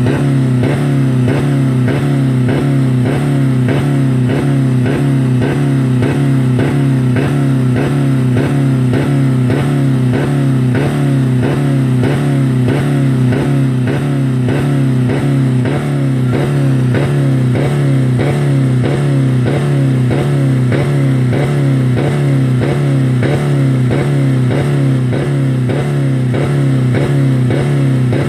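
2000 Dodge Neon four-cylinder engine held at about 4000 rpm, running with no oil or coolant left in it, a steady hard drone that pulses evenly about twice a second.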